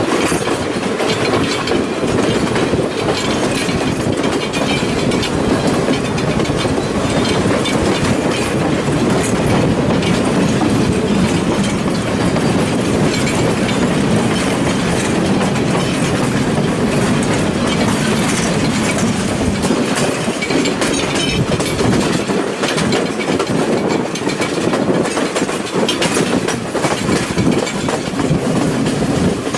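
A passenger train running along the track, heard from aboard: a steady rumble of the carriage with the clickety-clack of wheels over rail joints.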